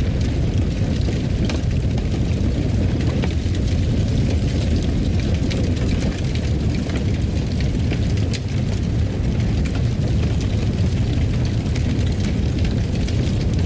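Wood fire burning in a fireplace: a steady low rumble of flames, with scattered sharp crackles and pops.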